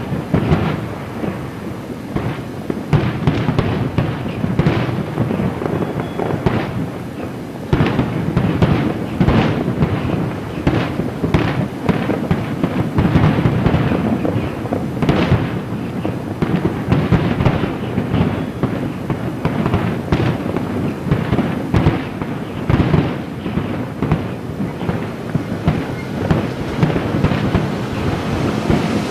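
Aerial fireworks shells bursting in a dense, continuous barrage: overlapping booms and crackles several times a second over a steady rumble, growing louder about a quarter of the way in.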